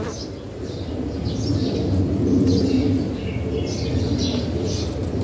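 Birds chirping at a feeder: short high calls come every half second or so, over a steady lower sound.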